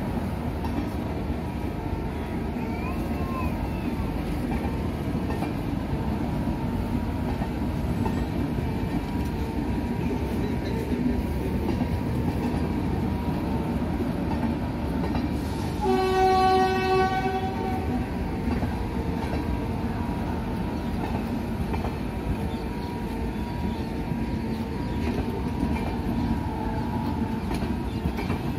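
A train running through the station with a steady rumble of wheels on rails. About two-thirds of the way in, a locomotive horn sounds one single-tone blast lasting about two seconds.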